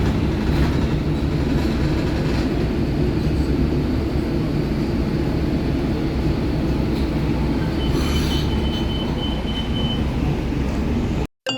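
Steady low rumble of a moving vehicle, with a thin high squeal lasting about two seconds near the end; the sound cuts off suddenly just before the end.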